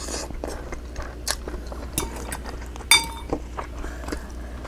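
Eating sounds: a utensil clinking against a dish several times, the loudest clink about three seconds in ringing briefly, with some chewing.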